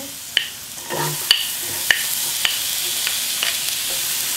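Minced garlic sizzling in perilla oil in a nonstick frying pan. About a second in, the sizzle grows louder as diced onion goes into the hot oil, with a few sharp clicks of a wooden spoon against the pan.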